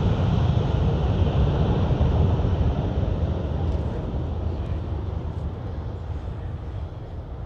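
Boeing C-17 Globemaster III's four turbofan jet engines at take-off power on a short take-off: a loud, deep rumble that fades steadily from about two and a half seconds in as the aircraft moves away.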